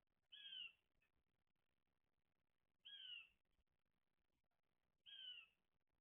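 A bird calling three times, each a short faint call sliding down in pitch, about two and a half seconds apart.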